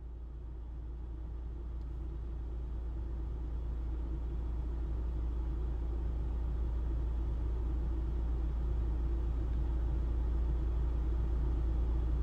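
Low, steady rumble of a car idling, heard from inside the cabin, growing gradually louder.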